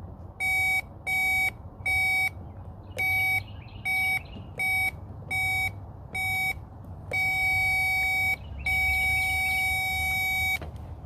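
Electronic electrical tester beeping while fuses are being probed: a run of short beeps, roughly one every 0.7 s, then two long beeps over the last few seconds.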